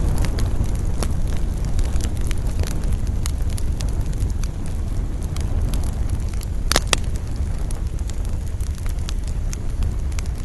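Wood campfire crackling steadily over a low rumble of wind, with scattered sharp pops and a louder double snap about seven seconds in.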